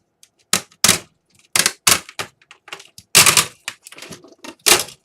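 Dell Inspiron 11 laptop keyboard being pried out of its plastic palmrest: a rapid, irregular run of loud plastic cracks and snaps as the plastic rivets holding it give way, about seven big snaps with smaller clicks between.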